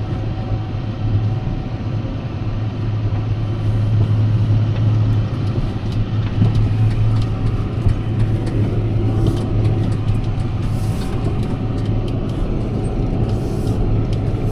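Tractor engine running steadily with a low hum, with scattered knocks and rattles over it from about four seconds in.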